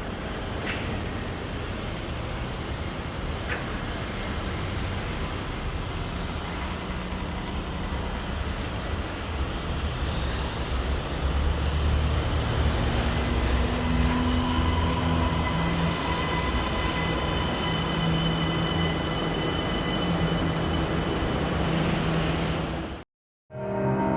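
Electric passenger train running, a steady rumble of wheels on rail, with a faint whine appearing about halfway through. It cuts off abruptly near the end.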